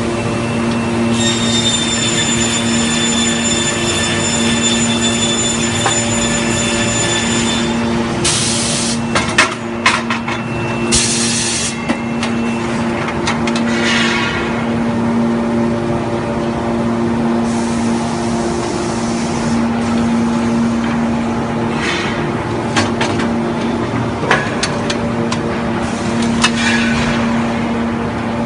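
Industrial machinery on an aluminium billet furnace and extrusion line running with a steady hum. Two sharp hisses of released air come about a third of the way in, and a few metallic knocks are scattered through.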